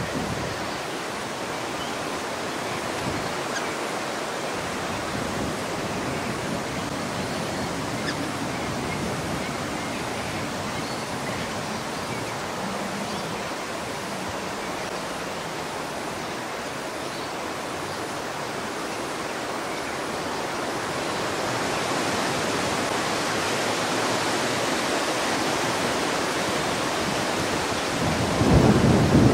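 Steady hiss of heavy rain, with a low rumble of thunder swelling near the end.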